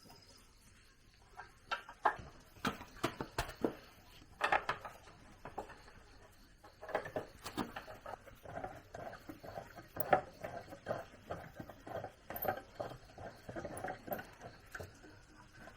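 Irregular light clicks, taps and small clatters of hand tools and metal parts being handled during repair work. They are scattered at first and come quickly one after another in the second half.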